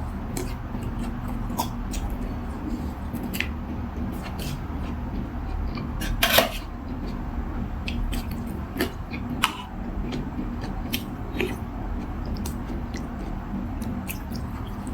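Eating utensils clicking and scraping against a noodle-soup bowl in scattered short knocks, one louder clink about six seconds in, over a steady low background hum.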